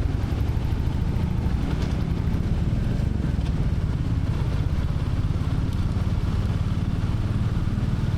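Royal Enfield Classic 350's single-cylinder engine idling with a steady, even thump, the motorcycle stopped at a red light.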